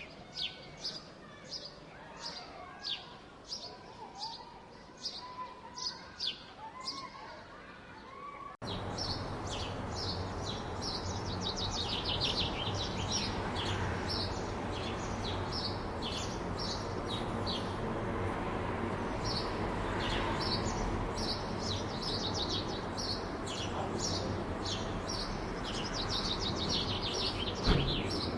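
Small songbirds chirping repeatedly in quick high notes. About eight seconds in, the sound cuts to a louder stretch with a steady low hum of city traffic beneath denser birdsong, and a single sharp knock comes near the end.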